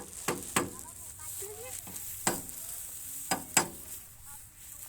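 Sharp knocks and clinks, five in all, two of them close pairs, each with a short ringing tail, over a steady high hiss.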